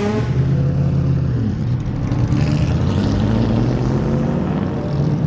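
BMW M3 GTR E46 race car's V8 running hard, its pitch dipping and rising at times, with a whine behind the engine note.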